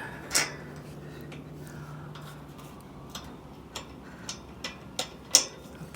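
Scattered sharp metal clicks and taps as a bolt is worked into the bolt holes of a steel tower section, about seven in all, the loudest near the end. A low steady hum runs under the first half.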